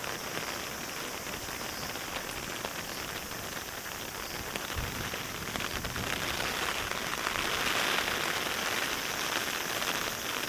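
Heavy rain falling steadily after a typhoon, a dense patter that grows louder about six seconds in. A brief low thud comes near the middle.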